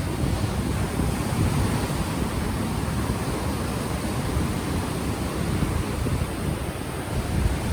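Ocean waves washing on the shore under steady wind buffeting the microphone, which has no windscreen.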